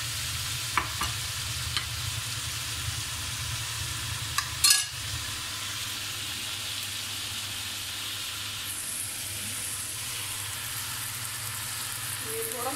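Chicken pieces frying in oil and spices in a steel pot, a steady sizzle while a wooden spoon stirs. There are a few light clicks, and a short, louder clatter against the pot a little before the middle, as a bowl of yogurt is tipped in.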